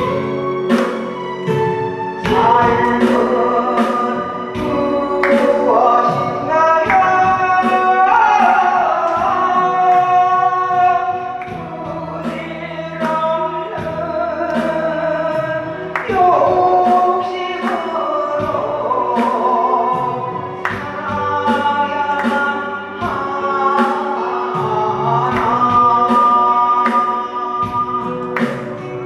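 A solo singer sings a Korean trot song over a backing track with a steady beat, holding long notes with vibrato.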